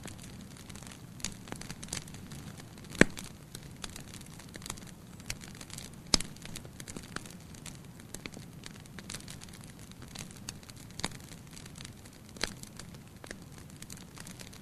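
Wood fire burning in a fireplace, crackling with a low steady hiss and irregular sharp pops, the loudest about three seconds in and another about six seconds in.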